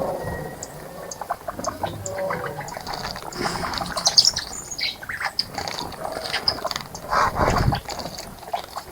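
Small wild birds bathing in a shallow bird bath: scattered splashing and wing-flicks in the water, with chirps and squawks over it and a louder burst of splashing about seven seconds in.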